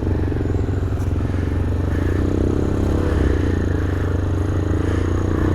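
Engine of an MGB ATX 125cc adventure motorcycle running steadily at idle, rising a little in pitch for a moment about two seconds in.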